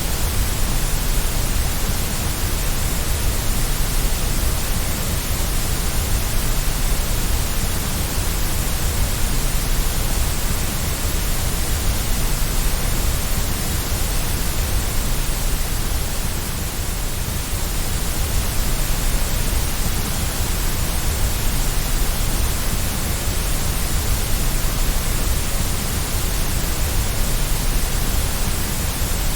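Steady white-noise hiss for soothing a baby to sleep, even and unchanging.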